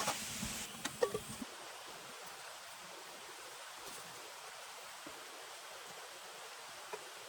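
Steady rushing water noise, with a few light knocks about a second in.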